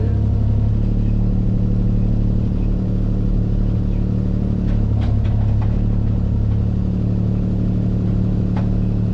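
Diesel engine of heavy equipment running steadily under work, with a few short knocks about halfway through and again near the end.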